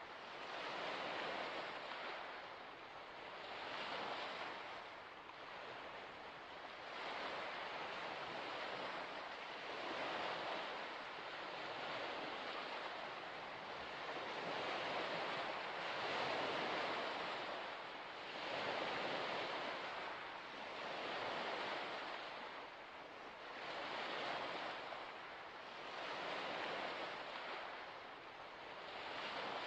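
Waves washing onto a shore, a steady rush of water that swells and falls back every two to three seconds.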